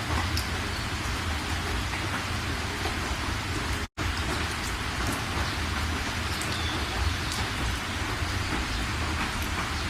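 Steady rain falling, with scattered drop ticks over an even hiss. The sound cuts out completely for an instant about four seconds in.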